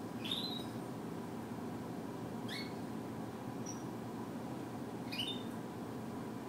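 A cat giving three short, high-pitched chirping mews, about two and a half seconds apart, over a steady low background hum. These are the calls she makes to ask for her ball to be thrown.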